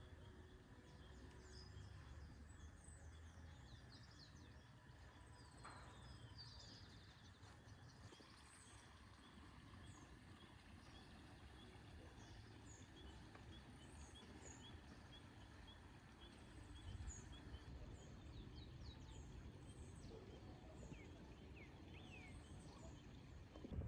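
Faint birdsong: many small birds chirping on and off, with a quick, evenly spaced run of chirps midway, over a steady low rumble of outdoor background noise.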